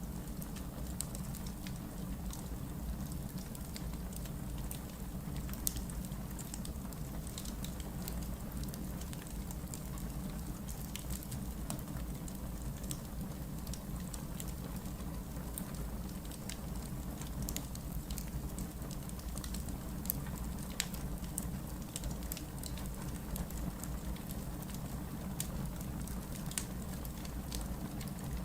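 Wood logs burning in a fireplace: a steady low rush of flame with frequent small crackles and pops throughout.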